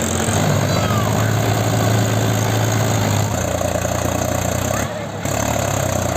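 Tractor diesel engine running at a steady speed, dropping slightly in pitch about three seconds in, with a brief dip about five seconds in.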